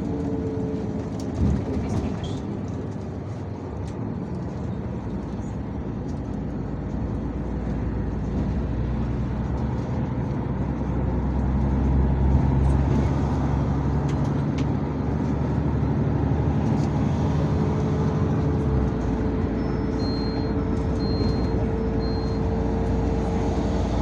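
Yutong ZK6128HG city bus heard from inside while under way: steady engine and road noise, with a low engine note that grows stronger in the middle and cuts out suddenly a few seconds before the end. A knock comes about a second and a half in, and three short high beeps sound near the end.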